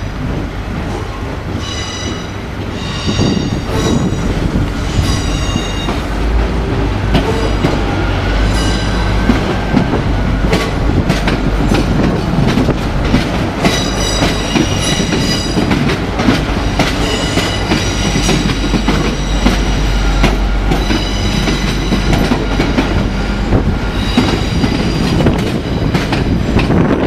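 Railway train running past close by: a heavy rumble with wheels clattering over rail joints, and repeated short bouts of high-pitched squealing from the wheels.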